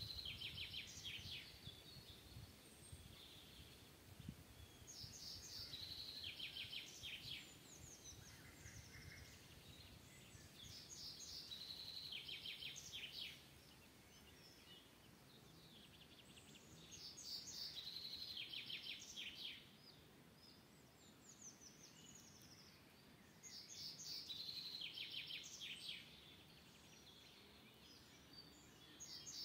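A songbird singing the same short phrase over and over, each phrase a quick run of repeated high notes, coming about every six seconds, over faint forest background noise.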